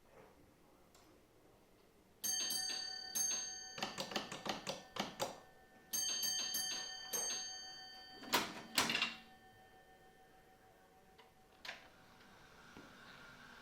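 Signal box block bell ringing: two ringing strokes about four seconds apart, with a run of quick clicks and taps between them, followed by two sharp knocks close together.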